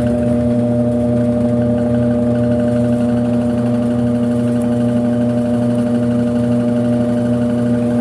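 Brastemp 5 kg washing machine spinning, its motor giving a loud, steady hum-whine of constant pitch.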